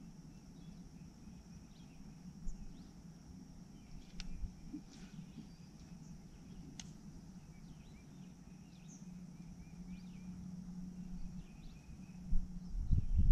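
Birds chirping faintly over a steady low hum and a steady high insect drone, with a couple of light clicks. Loud low rumbling thumps come near the end.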